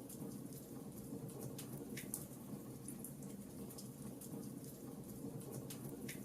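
Fireplace wood fire crackling: irregular sharp pops and snaps over a steady low rush of burning.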